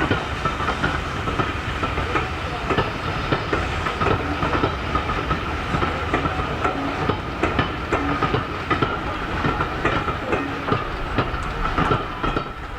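Steam-hauled train's wheels clattering over rail joints, a dense run of irregular clicks with a steady high-pitched whine running through.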